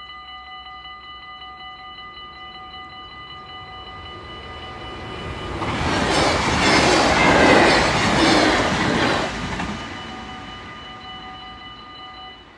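Dutch level-crossing warning bell ringing steadily while an NS passenger train passes at speed about halfway through, its rush of wheels on rail loudest for about four seconds. The bell cuts off near the end as the crossing clears.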